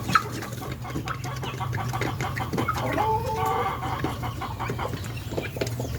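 Guinea fowl calling: a rapid run of short, harsh clucking notes, with a longer pitched call about three seconds in.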